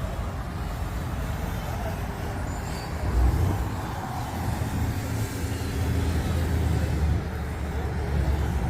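A car engine running nearby, a steady low rumble that grows louder about three seconds in, with faint voices in the background.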